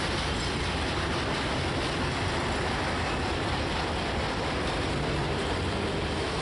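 Intermodal freight train's flatcars loaded with truck trailers rolling past: steady noise of steel wheels running on the rails.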